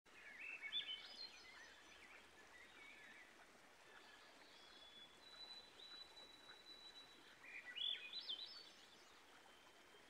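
Faint small-bird calls over a low outdoor hiss: a quick cluster of chirping notes about a second in, a thin steady whistle in the middle, and another chirping cluster later on.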